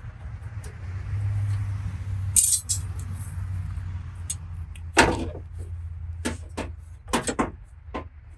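Metal tools clinking and knocking as they are handled: a short jingling rattle, then a few sharp knocks in the second half, the loudest about five seconds in, over a steady low hum.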